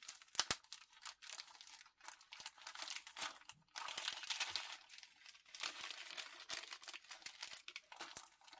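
Plastic packaging of a diamond painting kit being handled, crinkling continuously with many small clicks and a sharper click about half a second in.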